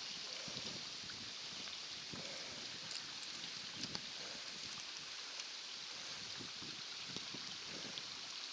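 Footsteps on a rocky trail, a soft thud about every half to one second, over a steady rush of water from Mina Sauk Falls.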